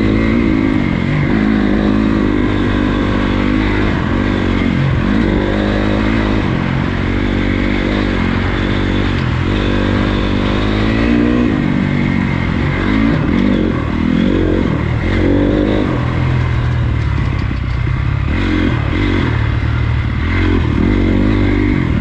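Honda CRF250 dirt bike's single-cylinder four-stroke engine under way, its revs rising and falling again and again with throttle and gear changes.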